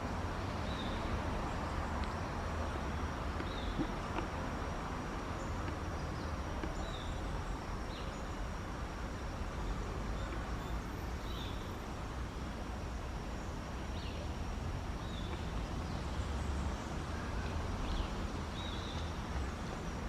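Forest ambience with a steady low rumble and a thin steady high tone. Short, faint high bird chirps recur every second or two.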